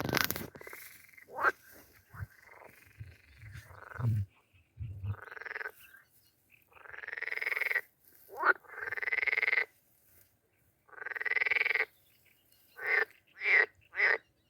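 Frogs croaking: several rattling calls about a second long, then three short calls in quick succession near the end.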